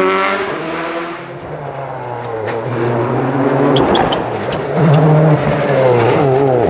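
Rally car engines at racing speed. One car's engine falls in pitch and fades in the first second or so, then another builds up and runs loud from about five seconds in, with a few sharp cracks along the way.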